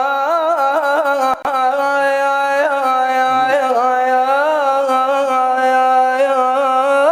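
A male munshid singing one long held vowel in an Iraqi lament, wavering in small melismatic turns around a steady pitch. There is a brief catch about a second and a half in.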